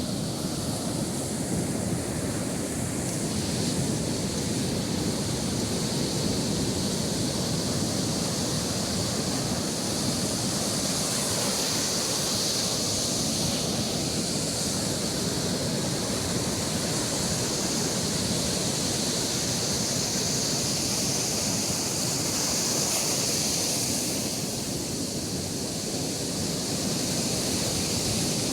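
Sea waves breaking and washing up on the beach: a steady, even hiss of surf.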